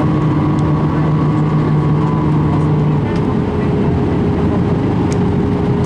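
Airbus A319 jet engines running loudly and steadily over a dense rumble, with several steady humming tones that give way about halfway through to a single higher hum.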